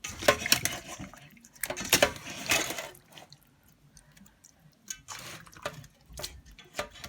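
Hands washing small pieces of sea bass in a bowl of water: splashing and dripping for the first three seconds, then only scattered drips and light clicks.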